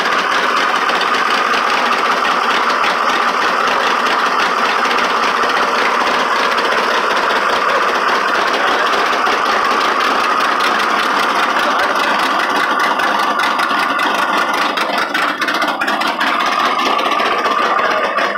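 Carbureted V8 engine with a four-barrel carburetor and tube headers, running steadily at idle.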